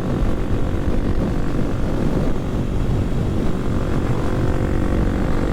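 Kawasaki KLX300SM's single-cylinder engine running steadily while riding at a near-constant speed, with wind rumbling on the microphone.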